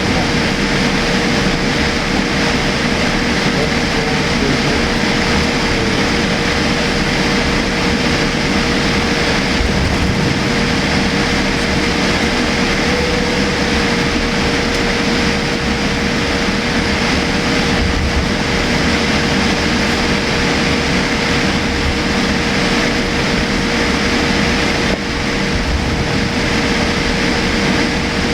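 Steady cabin noise inside a Boeing 787-8 airliner: an even rush of engine and air noise with a constant hum, holding level throughout.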